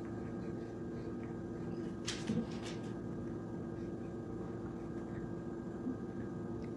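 A steady hum holding several fixed tones, like an appliance or motor running, with a few brief faint knocks about two seconds in.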